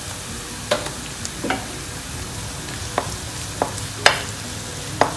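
Sliced garlic and ginger sizzling steadily in hot coconut oil in a non-stick wok. A wooden spatula stirs them and knocks against the pan several times, loudest about four seconds in.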